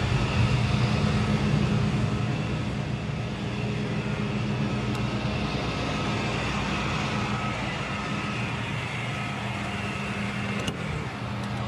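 Tow truck's engine running steadily, a low even hum that holds the same pitch throughout.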